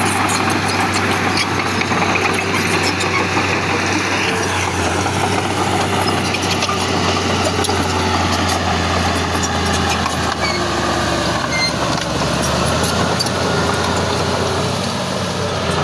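Heavy diesel earthmoving machinery running steadily: a low engine hum with scattered clicks and rattles over it.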